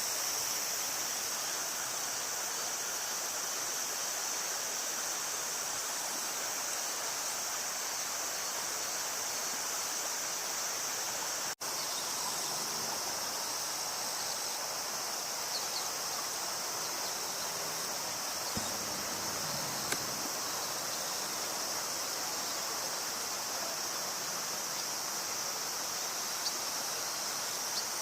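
Steady rush of river water with a continuous high-pitched drone of insects over it.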